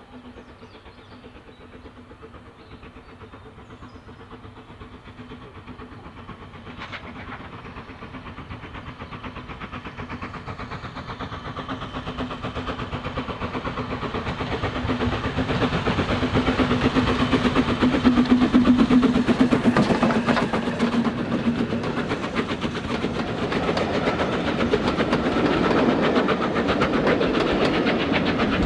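A train approaching along the line, its running noise growing steadily louder over the first fifteen seconds or so and staying loud as it draws level, with a steady low hum and a rapid rhythmic beat.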